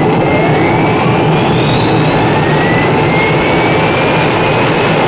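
Aircraft turbine engines running loud and steady, with several whines rising slowly in pitch.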